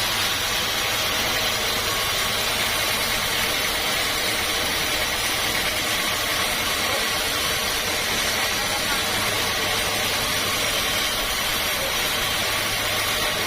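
Sawmill machinery running with a steady, unbroken hum and no distinct cuts or impacts.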